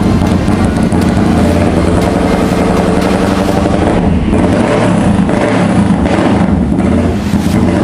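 Kawasaki ER-6n's 650 cc parallel-twin engine running steadily after a major service.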